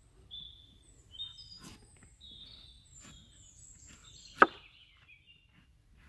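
Small birds singing in short, high, falling phrases, with a few sharp knocks, the loudest about four and a half seconds in.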